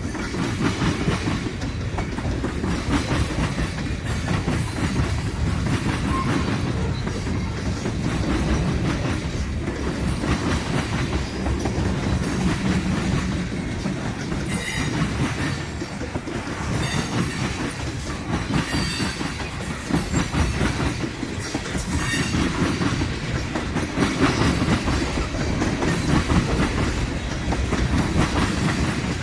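A train rolling past close by: a steady rumble of the cars with wheels clicking over the rail joints, and a few short wheel squeals around the middle.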